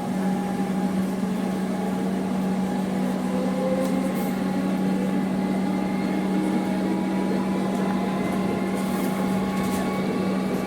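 Electric suburban train running with a steady electrical hum, and faint tones slowly rising in pitch from its motors.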